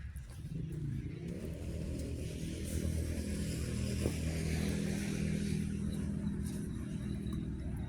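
A motor vehicle engine running steadily, growing a little louder in the middle and easing off toward the end.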